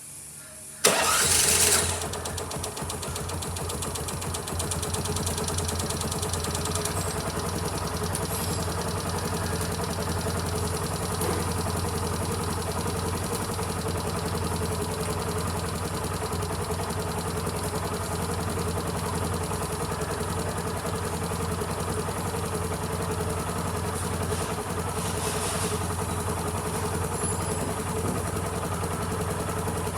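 An LML Star Deluxe 4S scooter's four-stroke single-cylinder engine starts about a second in with a brief loud burst, then settles into a steady idle.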